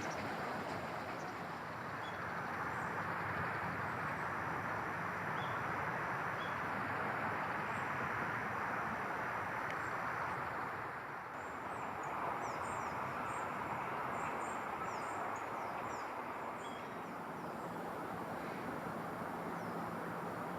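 Steady rushing background noise that swells and eases, with faint, short, high bird chirps over it, most of them bunched together in the middle stretch.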